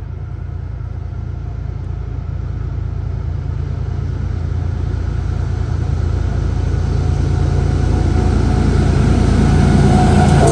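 Approaching train's low rumble growing steadily louder.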